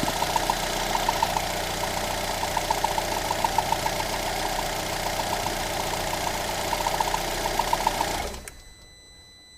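Lada Granta's 1.6-litre 16-valve VAZ-21126 engine running just after a full rebuild, with a rhythmic metallic knocking ticking through it: the knock that has persisted since the overhaul. The engine shuts off about eight seconds in.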